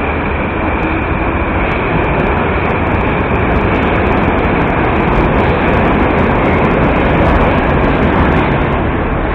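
Metro train running, a loud, steady rumble with a rushing noise over it.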